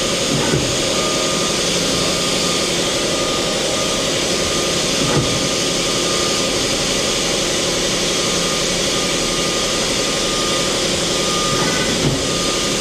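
The tool turret of a 2001 Mori Seiki MT2000SZ CNC mill-turn center indexing: a brief clunk-and-whir about half a second in, again about five seconds in, and near the end. Under it runs the machine's loud, steady hum of motors and pumps.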